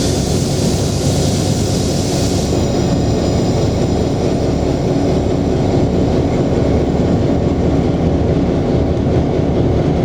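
EMD BL2 diesel locomotive's original 16-cylinder 567 engine running steadily, heard from inside the cab as a loud, constant low rumble. A hiss of air sounds over it for the first two and a half seconds, then fades out.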